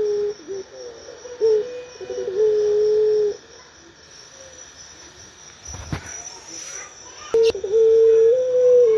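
Puter pelung dove cooing: long, low, held coos, two in the first three seconds, then a pause broken by a couple of clicks, then another long coo from about seven and a half seconds in that rises slightly in pitch near the end.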